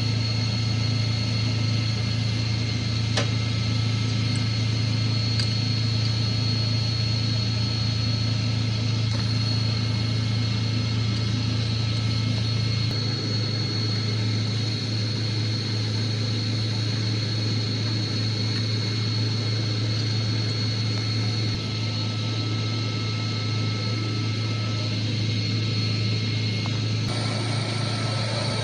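Turbocor compressor chiller running steadily: a loud, constant low hum with several high-pitched whine tones over it, the tones and hum shifting slightly about halfway through and again near the end.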